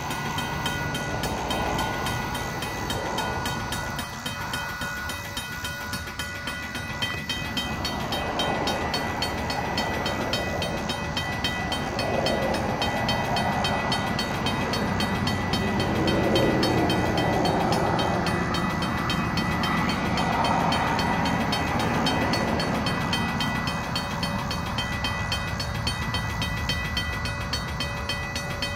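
A diesel-hauled freight train rolling past with a steady rumble of locomotive and rail cars. It builds from about a third of the way in, is loudest in the middle and eases off near the end.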